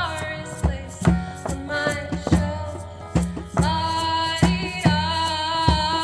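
Live music: sung melody over a steady hand-drum beat with light percussion, the drum thumps about every half second or so.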